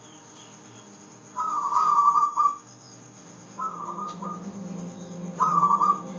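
Zebra dove (perkutut) cooing in three trilled phrases, the first the longest. A low steady hum joins about halfway through.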